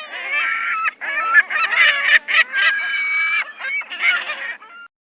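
Several overlapping loud honking bird calls, like a flock of geese, coming in bursts with the pitch bending; the calls stop abruptly near the end.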